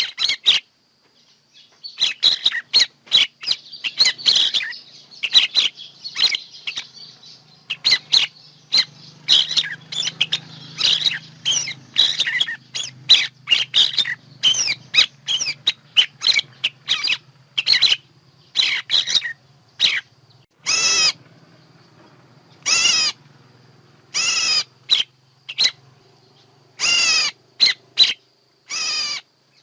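Birds calling in a fast, dense string of short high chirps, giving way after about twenty seconds to fewer, longer rasping calls. A faint low hum runs underneath.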